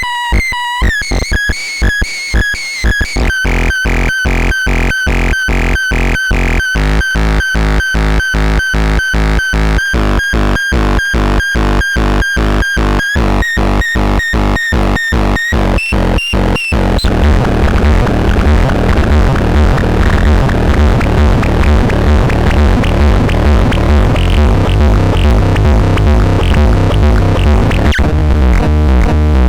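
Electronic synthesizer music: short pitched notes pulse at a steady rhythm of about four a second. About 17 seconds in, a denser, louder layer with heavy bass comes in.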